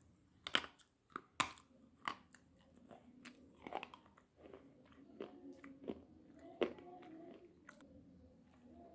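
A slate pencil being bitten and chewed, crunching between the teeth. The crunches are sharp and irregular, coming thickest in the first half and thinning out toward the end.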